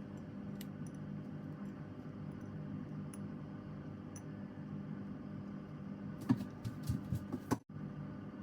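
Steady low hum with a few faint ticks, then a short run of light clicks and knocks about six seconds in; the sound drops out for a moment near the end.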